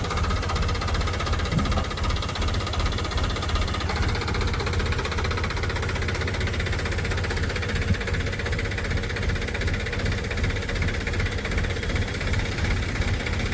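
Diesel engine of heavy farm or earth-moving machinery running steadily.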